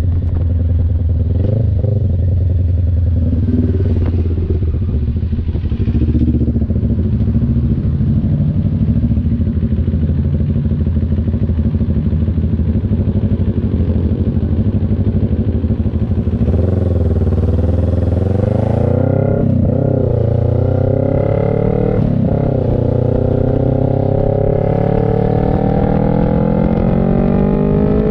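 CF Moto NK400 two-cylinder engine running steadily at low revs, then accelerating through the gears about two-thirds in: the revs rise and drop at two upshifts, then climb in one long pull near the end.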